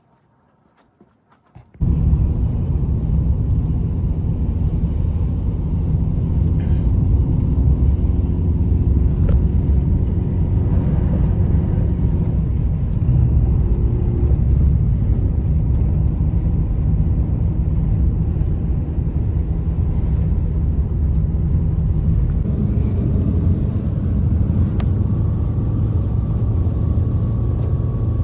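A loud, steady low rumble that starts abruptly about two seconds in, after a few faint ticks.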